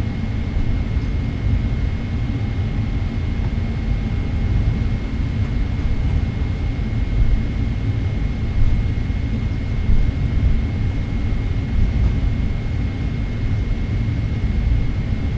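Boeing 777-300ER heard from inside the cabin: a steady low jet rumble with a thin, steady high whine over it.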